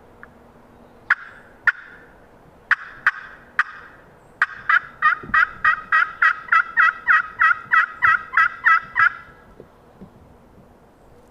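Turkey yelps in the hen's rhythm: a few single spaced notes, then a fast run of about seventeen yelps, roughly four a second, that stops near the end.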